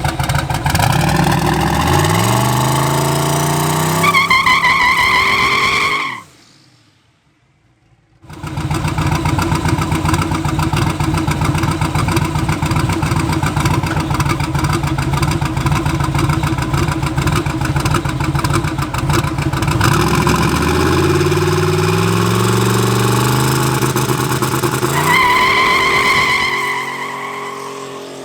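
Twin-turbo LS V8 in a Chevy S10 drag truck revving up and held at high rpm, then running steadily, then revving up and held high again before easing off. About six seconds in the sound cuts out abruptly for roughly two seconds.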